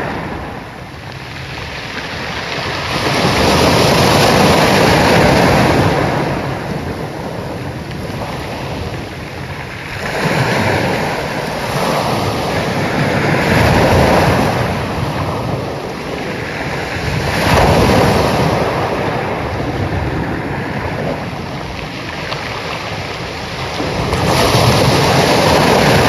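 Ocean waves breaking on a shore: the surf swells and washes back in slow surges a few seconds apart, about five loud crests in all.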